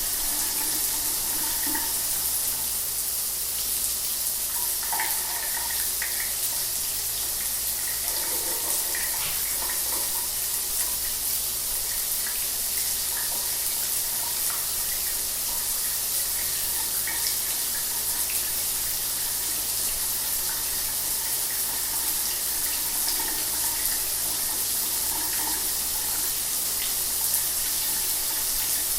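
Shower water running steadily, a constant high hiss of spray with small irregular splashes.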